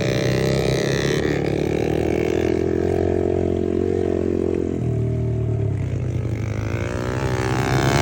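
Pit bike engine running on a lap of a dirt track, holding a steady pitch, dropping off about five seconds in, then revving back up near the end.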